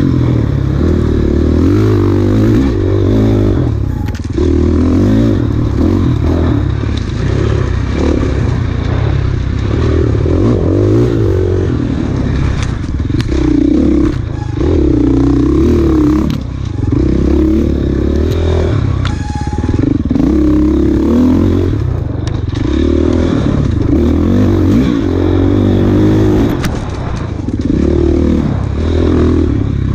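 Enduro dirt bike engine riding hard off-road, the revs rising and falling every second or two as the throttle is opened and chopped, with scattered clatter and knocks.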